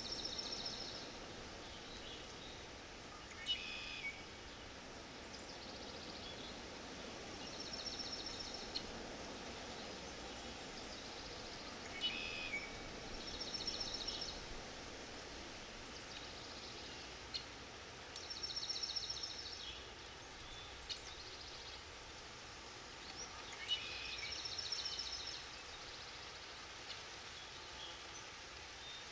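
Forest ambience: a bird repeats a short trilled song about every five to six seconds, with a few brief sharp chirps from birds in between, over a steady soft hiss of background.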